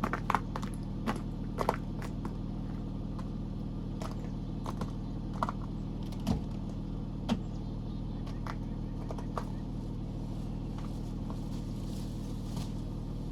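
A vehicle engine idling steadily, with scattered light clicks and knocks over it, most of them in the first two seconds.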